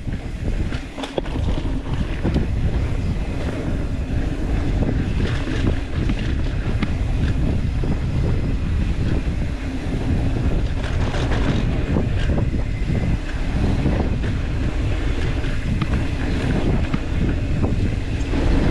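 Wind rushing over the microphone and tyres rolling on a dirt trail while riding a mountain bike, with scattered clicks and knocks from the bike jolting over bumps.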